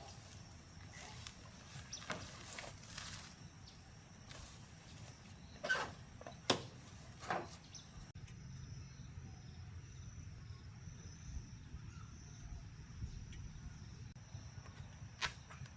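Faint outdoor background with a low rumble and a steady high thin tone, broken by a few sharp knocks: three close together about six seconds in and one more near the end.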